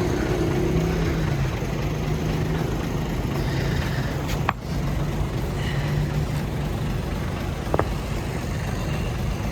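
A motor running steadily with a low hum, with a sharp click about halfway through and another near the end.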